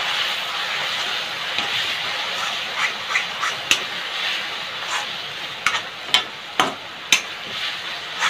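Onion-tomato masala sizzling in ghee in a kadhai while a steel ladle stirs and scrapes it, with sharp clicks and knocks of the ladle against the pan, more of them in the second half. The masala has cooked down to the stage where the ghee separates out.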